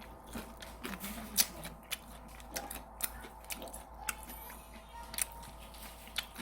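Irregular sharp clicks and taps of chopsticks and utensils against plastic food containers while eating, about one or two a second.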